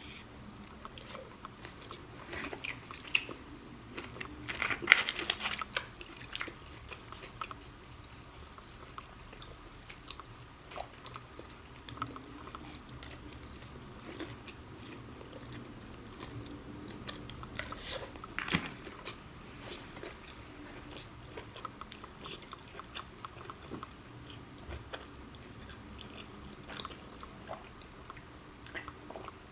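Close-miked eating: biting and chewing food with some crunching, as irregular short clicks and crackles, with louder clusters about five seconds in and again around eighteen seconds.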